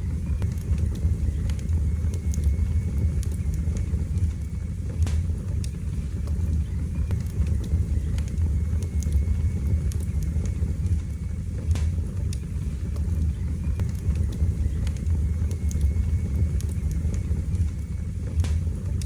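Wood fire burning in a fireplace: a steady low rumble with scattered light crackles and a few sharper pops.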